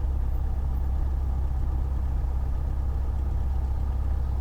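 Cessna 172's piston engine running steadily at low taxi power, a low, even hum with no change in pitch.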